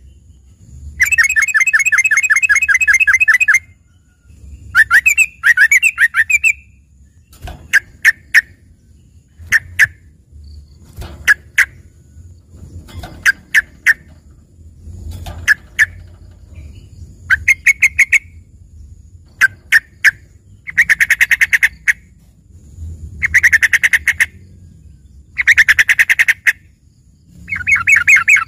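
Yellow-vented bulbul (trucukan) singing a trained 'isian' song in the style of a greater green leafbird (cucak ijo). Rapid rattling trills of a second or two alternate with short sharp chips, about ten phrases in all.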